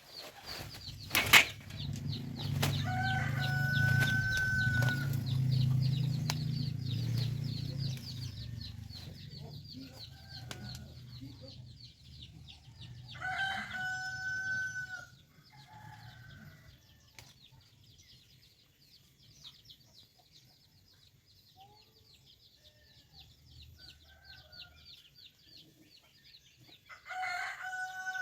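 Roosters crowing three times, each a long held call, over a steady high chirring of insects. A low rumble is loudest in the first several seconds and fades away by about ten seconds in.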